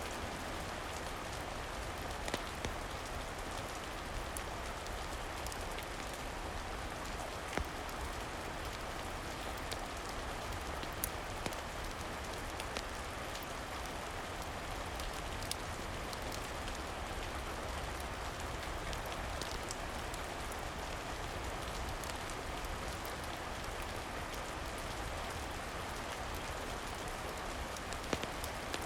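Steady rain falling on a surface, an even hiss of drops, with a few sharp clicks scattered through it.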